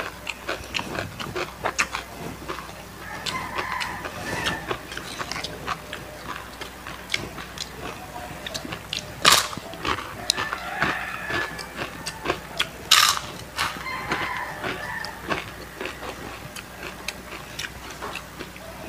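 Close-up crunching and chewing of crispy fried chicken skin: many sharp crunches with the bites, the loudest two about nine and thirteen seconds in.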